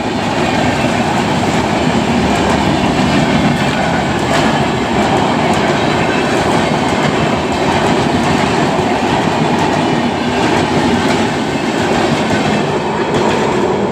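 Express passenger train running past at speed: a steady, loud rumble of coaches, with wheels clacking over the rail joints.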